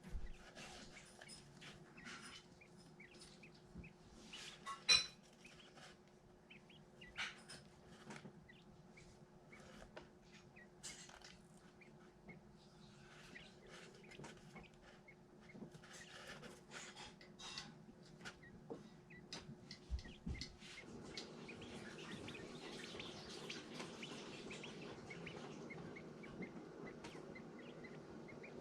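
Young chicks peeping softly, with short high cheeps scattered throughout and one louder sharp sound about five seconds in. A steady low hum runs beneath, and a faint rushing noise comes in about two-thirds of the way through.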